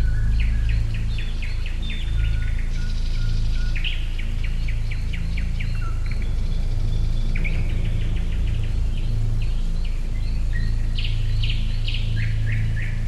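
Wild birds singing, with repeated trills of rapid chirps and a few short held whistles, one after another. Soft, low music runs underneath.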